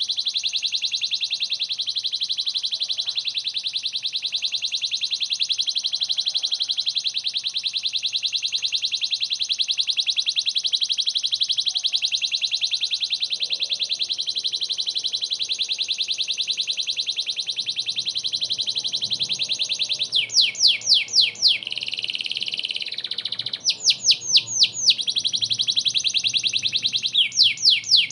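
Domestic canary singing: a long, very fast rolling trill for most of the stretch. Near the end it breaks into three bursts of quick downward-sliding whistled notes with short rolls between them.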